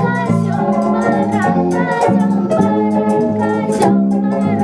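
Keyboard music with an organ-like sound, playing a tune over held chords.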